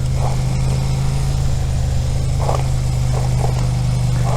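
Suzuki SV650's V-twin engine running at a steady, even pitch while the motorcycle is ridden at low speed in second gear.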